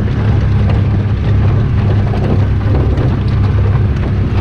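Polaris utility vehicle's engine running steadily as it drives along, with a constant low hum.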